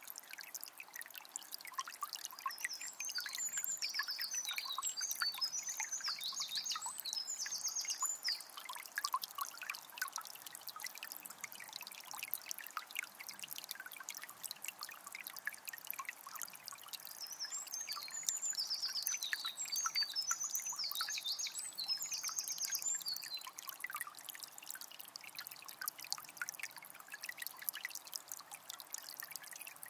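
Calm forest river flowing with a steady trickle and small splashes. A songbird sings twice over the water, once a few seconds in and again a little past the middle, each burst of song lasting about five seconds.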